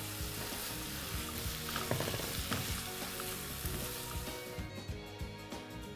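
French beans and chana dal sizzling in hot oil in a kadhai, stirred with a spatula, with a few scrapes against the pan. The sizzle stops suddenly near the end as a glass lid goes on, leaving faint background music.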